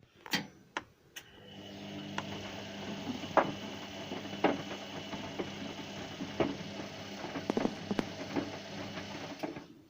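Whirlpool WNQ66A appliance running, the noise it is faulted for: a few clicks, then a motor hum with irregular knocks and rattles that cuts off shortly before the end.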